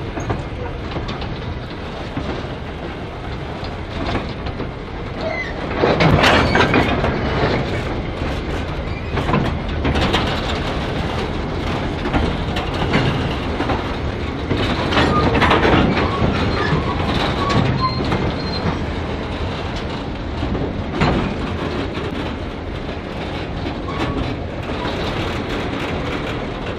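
Heritage mixed train of six-wheel passenger cars and goods wagons, hauled by a diesel locomotive, rolling on jointed track. A steady rumble runs under repeated bursts of clickety-clack as the wheels cross rail joints, with faint high wheel squeal at times.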